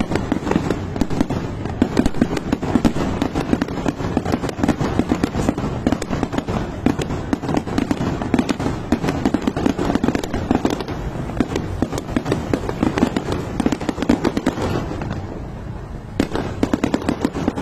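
Fireworks going off in a dense, continuous rattle of rapid pops and bangs, easing briefly about fifteen seconds in before picking up again.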